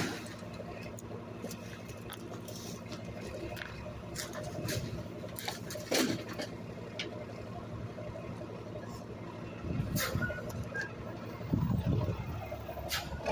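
Garbage truck engine running steadily, with scattered knocks and clatter over it and a couple of louder rumbling surges near the end.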